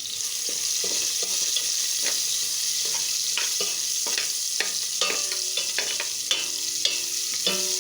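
Sliced onions sizzling steadily in hot frying oil in a pot, stirred with a utensil that clicks and scrapes against the pot many times.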